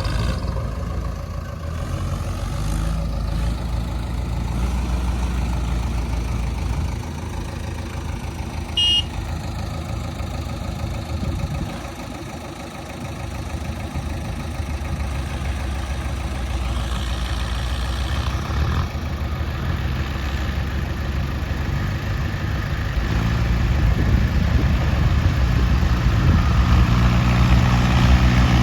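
Heavy diesel engines of a JCB 3DX Xtra backhoe loader and tractors running steadily under varying load, growing louder near the end, with a brief high tone about nine seconds in.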